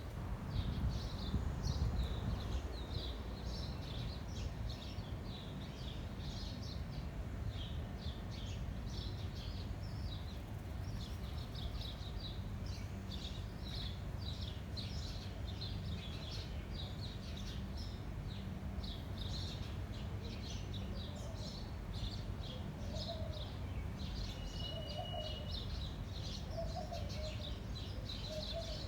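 Many small birds chirping and chattering continuously over low wind rumble on the microphone, which is strongest in the first couple of seconds. In the last several seconds a lower call repeats every second or so.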